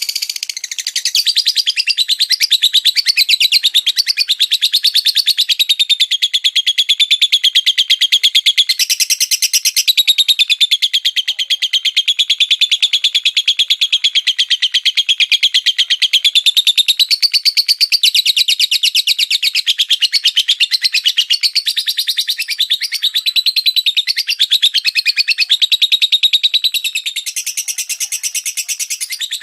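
A songbird singing one long, unbroken, very fast trill of high, sharp chirps, a 'tembakan' song of the kind played to tutor kicau birds. The pitch wavers slightly, and there are a few brief brighter, harsher passages.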